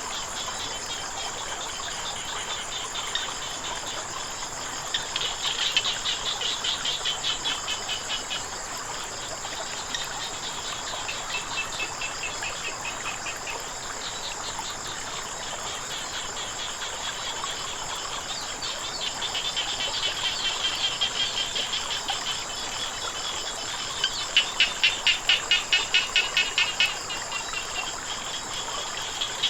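Frogs calling in repeated bouts of rapid pulsed trills over a steady high-pitched insect chorus, with the hiss of flowing water underneath. The loudest bout of frog calls comes near the end.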